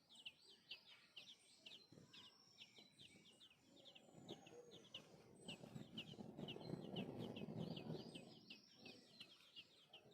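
Nestling birds chirping, a rapid run of short high-pitched calls about four a second. A low rustling noise comes in about four seconds in and fades near the end.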